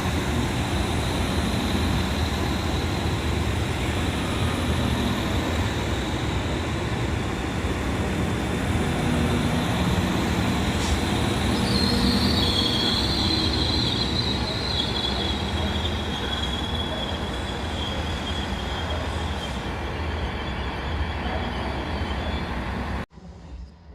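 A train running past at close range, its rolling noise loud and steady. About halfway through, a high-pitched wheel squeal sets in and carries on for several seconds before fading. The sound cuts off abruptly just before the end.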